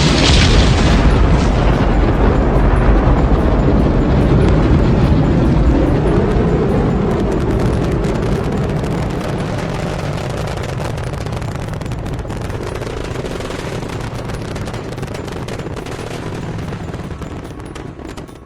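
Rocket engines roaring at launch: a loud, deep, crackling rumble that slowly fades as the rocket climbs away.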